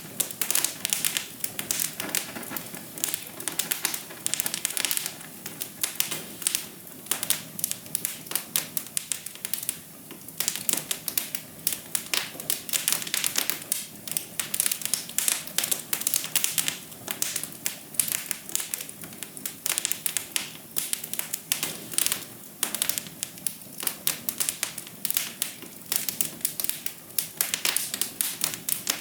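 Wood fire crackling in a fireplace: a dense, irregular run of sharp snaps and pops that comes in uneven clusters.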